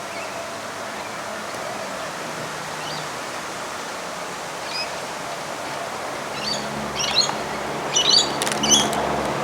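Birds chirping in short calls, clustered in the second half, over a steady outdoor background hiss. A faint low hum comes in about two-thirds of the way through.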